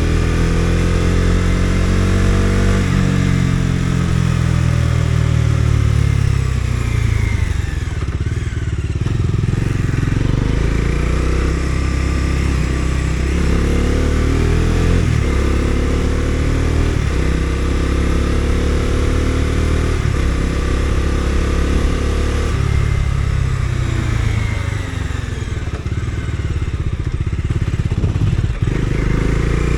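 Bajaj Dominar 250's single-cylinder engine, heard onboard while riding. The pitch first falls as the bike slows, then climbs through several upshifts, rising and dropping sharply at each change, and falls away again near the end.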